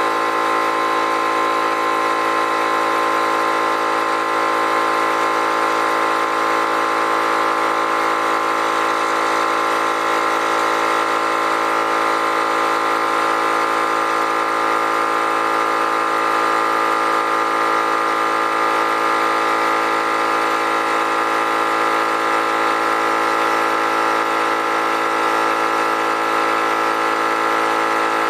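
Harbor Freight air compressor's motor and pump running steadily, pumping the tank up toward the raised cut-off pressure set on its pressure switch.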